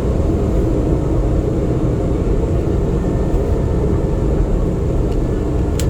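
Manila MRT Line 3 train running between stations, heard from inside the carriage: a steady low rumble with a thin high tone over it, and one sharp click near the end.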